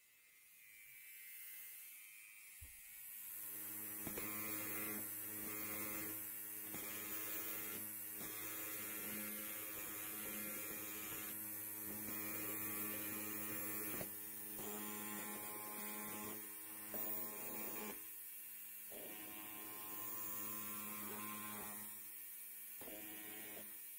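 Electric hair clippers buzzing steadily with a deep, even hum. The buzz builds up over the first few seconds, then becomes somewhat quieter about three quarters of the way through.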